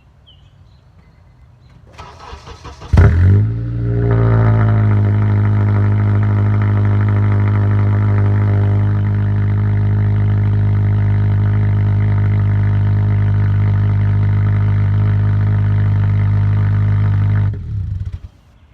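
Honda Accord engine with its muffler cut off, cold-started: the starter cranks for about a second, the engine catches with a loud flare of revs, then settles into a steady, loud fast idle through the open exhaust. It is switched off about a second before the end.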